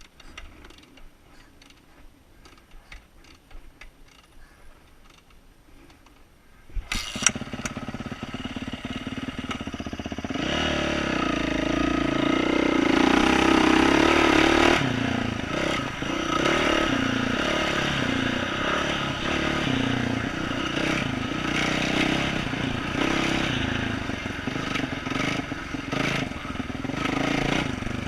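Quiet for the first several seconds, with only faint clicks. About seven seconds in, a 2012 Yamaha YZ450F's single-cylinder four-stroke with an aftermarket exhaust starts with a sharp crack. It revs up, peaking about halfway through, then runs on with the revs rising and falling.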